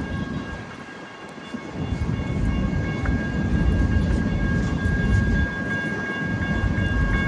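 BNSF manifest freight train rolling past, a dense low rumble of locomotives and freight cars that dips briefly about a second in and then grows louder, with faint steady high-pitched tones over it.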